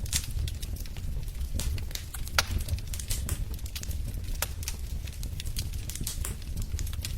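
Wood fire burning in a fireplace, crackling with irregular sharp pops over a low steady rumble, one louder pop about two and a half seconds in.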